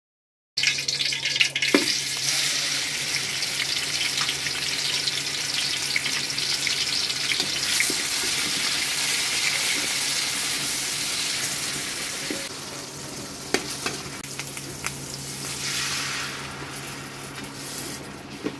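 A paste and green chillies frying in hot oil in an aluminium karahi, sizzling loudly, with a flat metal spatula scraping and clicking against the pan as it is stirred. The sizzle starts abruptly about half a second in and eases off after about twelve seconds.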